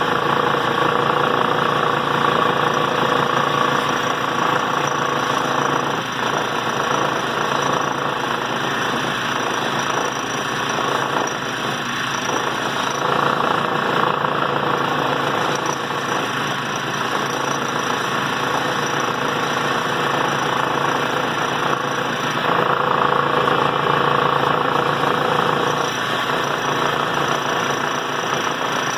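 Washing-machine motor driving a cutting disc, running steadily with a whine while the disc grinds through steel chain. The sound eases off in the middle and grows louder again later as the load on the disc changes.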